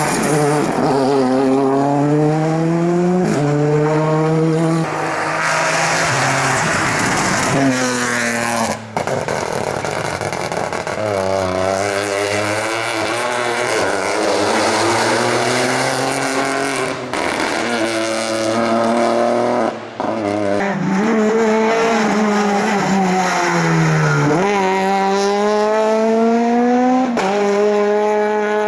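Rally cars driven hard on a stage, their engines revving up with rising pitch and dropping sharply at each gear change, several times over. The sound breaks off abruptly a couple of times as one car's run gives way to another's.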